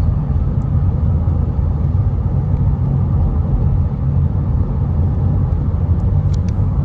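Steady road noise and engine drone inside a moving car's cabin, a low rumble with faint tyre and wind hiss, with a couple of small clicks near the end.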